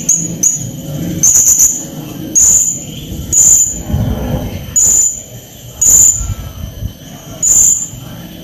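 Hanging parrot (serindit) calling hard: a run of short, shrill, high-pitched squeaks, roughly one a second at uneven spacing.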